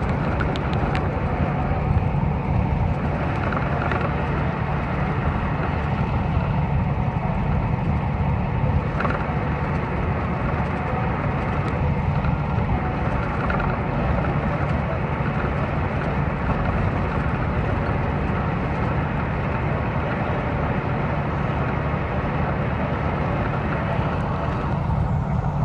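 Tractor-trailer's diesel engine and tyre and road noise heard from inside the cab while cruising: a steady low drone that holds even throughout.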